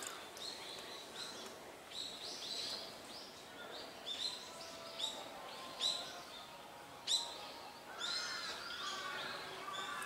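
Wild birds calling in the trees: a run of short, sharp, down-slurred chirps repeating about once a second, over a faint outdoor background.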